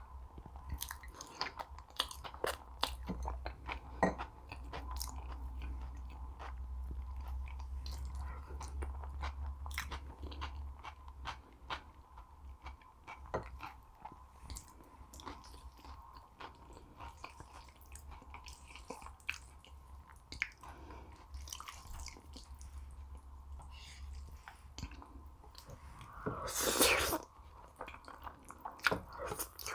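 Close-miked chewing and biting of food, with many short wet mouth clicks. A louder rushing noise lasting about a second comes near the end.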